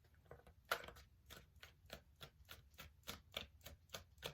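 A deck of tarot cards being shuffled by hand: a faint, even run of soft card slaps, about three to four a second.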